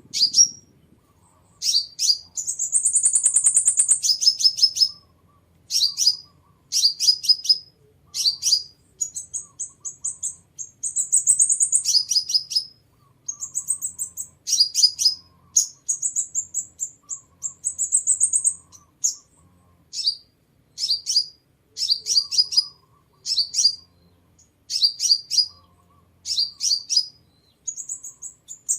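Crimson sunbird singing: repeated bursts of sharp, high chips that drop in pitch, broken by longer high buzzy trills lasting a second or two.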